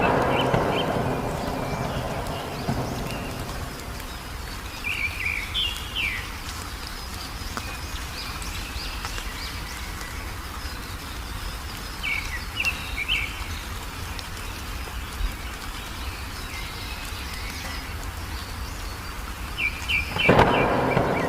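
Wild birds chirping in short clusters of quick high notes every several seconds over a steady low background rumble. A loud rumble of thunder fades out at the start, and another rises near the end.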